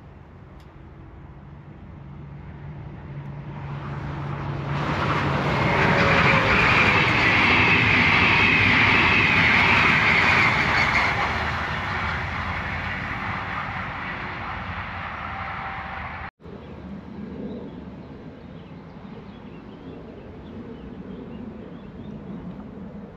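An electric train passing at speed: it builds to a loud rush of wheels on rail, holds for several seconds, then fades away. About two-thirds of the way through, the sound cuts off abruptly and a quieter steady background follows.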